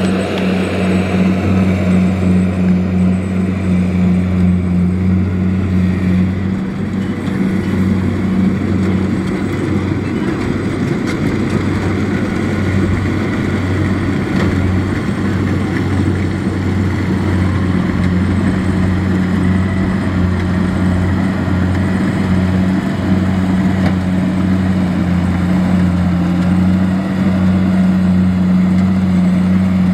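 Kubota DC-70 rice combine harvester running steadily, its engine a constant low hum under the noise of the machine at work.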